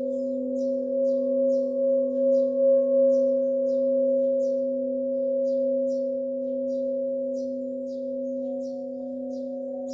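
Tibetan singing bowls ringing on in several overlapping steady tones whose loudness wavers, with a higher tone joining near the end. Small birds chirp over them in short quick notes, about two a second.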